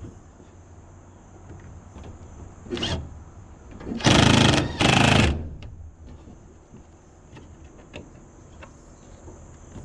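Power drill driving screws to mount a bathroom exhaust fan: two short runs of the motor, each about half a second, a little past halfway through, with a smaller sound a second or so earlier.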